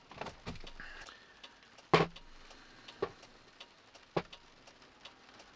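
Rain on the roof of a 1984 Volkswagen Westfalia camper van, heard from inside: scattered ticks and taps of drops, with a few louder knocks about two, three and four seconds in.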